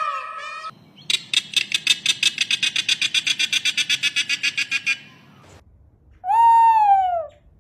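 Bird calls: a pitched call ending, then a rapid trill of about eight notes a second for about four seconds, and near the end a single call that falls in pitch.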